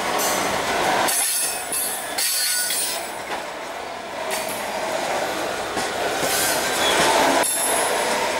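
Loaded coal hopper wagons rolling past close by, steel wheels running on the rails in a steady rumble and clatter, with a high squeal that comes and goes.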